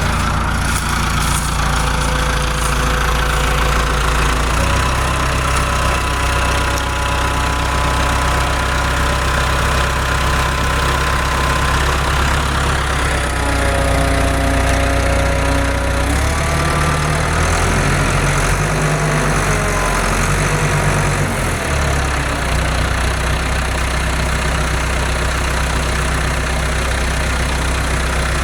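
Tractor engine running steadily, its pitch shifting a few times as it works. A higher whine rises and falls over it in the middle.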